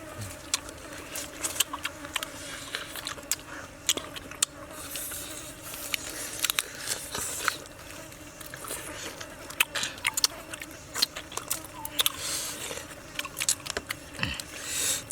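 Grilled duck being chewed and bitten into: irregular sharp crunches and clicks throughout.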